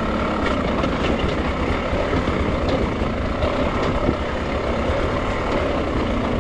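Dirt bike engine running at a steady, low throttle while the bike is ridden slowly over rocky ground, with a few light clicks.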